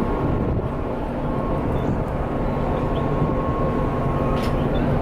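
Wind rumbling on the microphone over a steady machinery hum with a thin high whine, as a cruise ship sails out of harbour.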